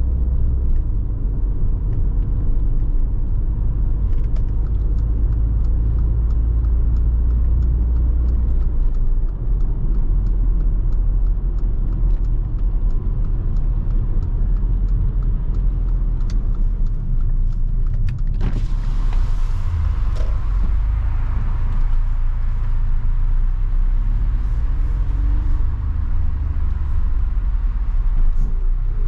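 Mercedes-AMG GLA 45's 2.0-litre turbocharged four-cylinder running at a steady low rumble. A rush of higher noise joins about two-thirds of the way through.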